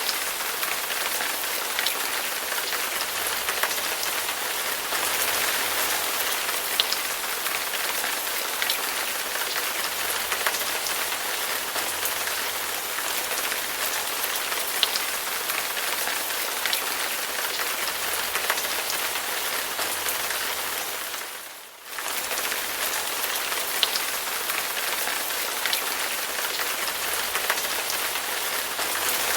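Heavy rain falling steadily, a dense even hiss with scattered sharp drop impacts. The sound fades briefly about two-thirds of the way through, then returns at full strength.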